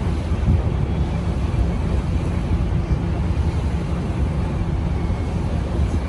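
Wind buffeting the microphone on a moving boat's open deck, over a steady low rumble from the boat's engine and hull.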